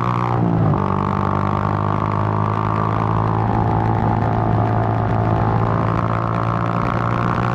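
Suzuki GN125's single-cylinder four-stroke engine running steadily under way, with a brief dip in revs about half a second in and a slight fall and rise in pitch later.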